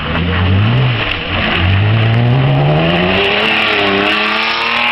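BMW Z3 rally car accelerating hard past at close range. The engine revs up, drops briefly about a second in as it changes gear, then climbs steadily again through the next gear.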